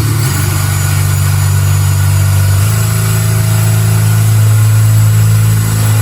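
Power drill running steadily with a hole-cutting bit, cutting a drainage hole through a planter pot; the motor's pitch steps up slightly about two and a half seconds in.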